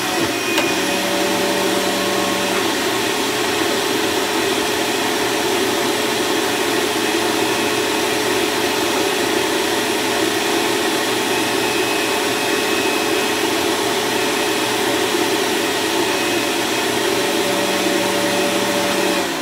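Dirt Devil Ultra Vision Turbo upright vacuum running steadily with a constant hum, its drive belt worn and due for replacement. It has trouble picking up shredded paper. It is switched off at the very end and winds down.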